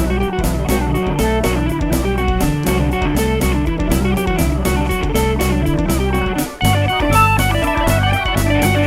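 Live band playing an instrumental passage: electric guitar over bass and drums keeping a steady beat, with a brief break about two-thirds of the way through before higher guitar notes come in.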